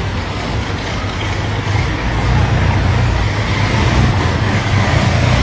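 A car engine running low and steady, louder toward the end, over street noise.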